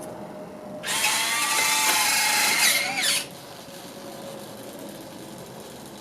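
Electric landing-gear retracts of an FMS P-51D Mustang RC model whining as they fold the gear up. The motor whine lasts a little over two seconds and rises slightly in pitch just before it cuts off.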